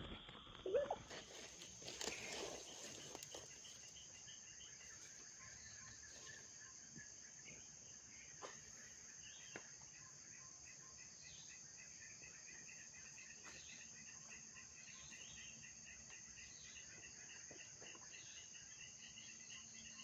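Insect chorus, crickets calling steadily: a continuous high drone with a rapid pulsing trill beneath it. A short call about a second in and a brief rustling burst about two seconds in.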